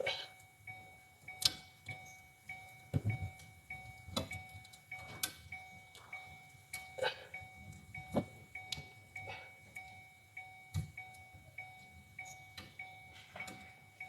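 A quiet electronic chime repeating about twice a second, as from a car's warning chime. It is overlaid with irregular clicks and knocks of hands working plastic wiring connectors under a car seat.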